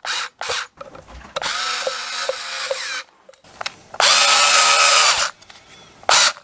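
Power drill-driver running in short bursts, spinning up and winding down, as it drives in the small screws that hold the fog lamp holder onto the new lens unit. Two longer runs of about a second and a half each, with short clicks and taps between and near the end.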